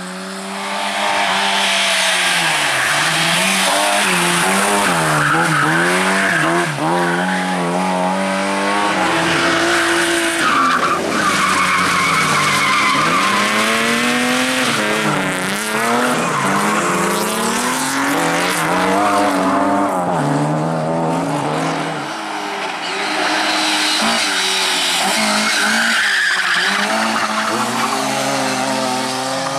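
Rally car driven flat out: the engine revs climb and drop again and again through the gear changes and lifts, with tyres squealing as it slides.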